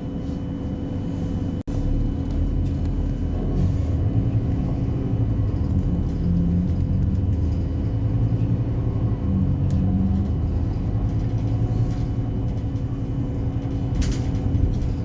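Diesel engine of a Scania-chassis Alexander Dennis Enviro300 single-deck bus running with a steady low rumble, its pitch shifting slightly a few times. The sound cuts out for an instant about a second and a half in.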